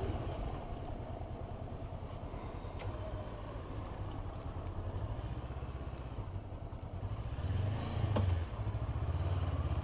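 Honda CB500F's parallel-twin engine running at low revs as the motorcycle rolls slowly, with a brief rise in revs about eight seconds in.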